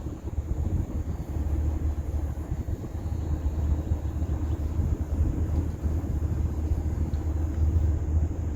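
Chevrolet Camaro ZL1's supercharged 6.2-litre V8 running steadily through a straight-piped exhaust with its mufflers deleted, giving a deep, even low rumble.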